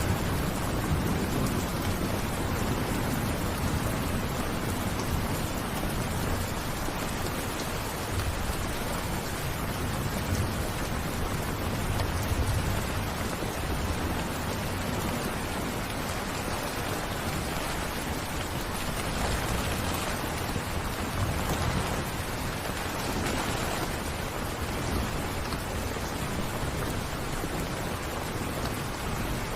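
Steady rainfall, a dense even hiss of drops with a low rumbling undertone that swells now and then.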